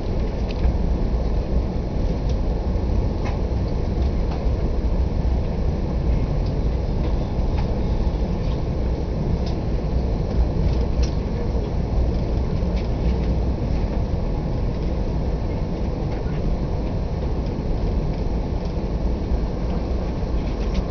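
Steady low rumble of a VIA Rail passenger train running along the track, heard from inside the coach, with scattered faint clicks.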